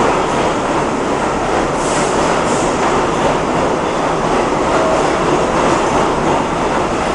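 R32 subway cars pulling out of a station. Their wheels and running gear make a loud, steady noise.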